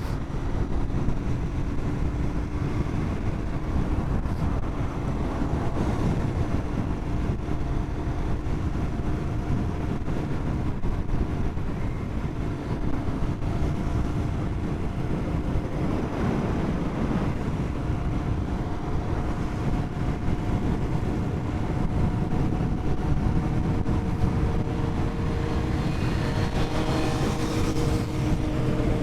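Royal Enfield Continental GT 650 parallel-twin engine running at a steady cruise under the rider's helmet-mounted mic, mixed with a constant rumble of wind and road noise. The engine note holds almost steady and shifts slightly near the end.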